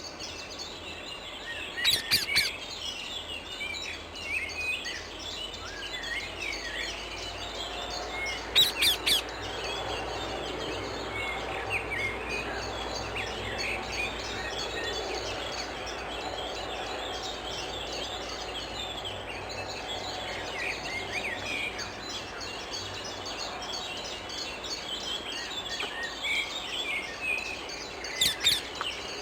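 Rose-ringed parakeets (Indian ringnecks) giving loud, sharp screeches in quick groups of two or three, three times: near the start, about nine seconds in, and near the end. Under them is continuous high twittering and chirping of birds.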